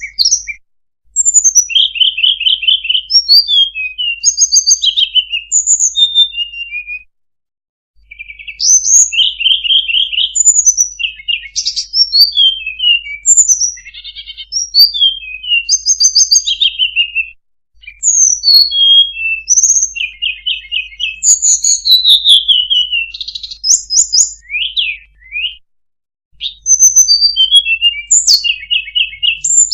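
Song of the sulingan (tledekan) bird, the hill blue flycatcher, played as a lure call: quick runs of high whistled notes, slurred glides and rapid trills in long phrases broken by a few short pauses.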